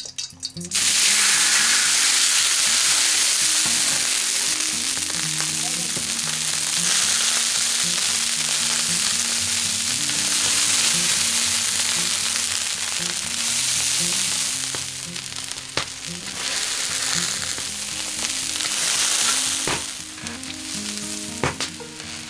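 Dumplings sizzling loudly in hot oil in a large iron wok; the sizzle starts suddenly about a second in as they go into the pan. A few sharp knocks, likely the spatula against the wok, come near the end.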